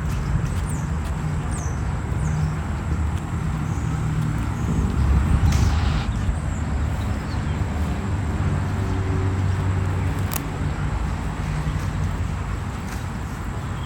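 A low, steady engine rumble, with a few short high chirps in the first two seconds and a louder rush about five and a half seconds in.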